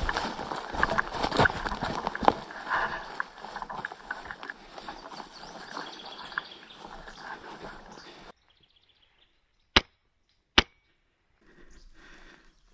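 Several seconds of loud rustling and clattering with scattered clicks, which cut off abruptly. Then, in near silence, come two sharp single cracks less than a second apart, like airsoft gun shots.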